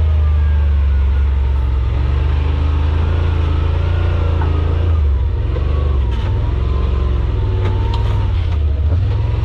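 Side-by-side UTV engine running under way on a trail, a steady low drone whose pitch shifts about halfway through, with a few short knocks near the end.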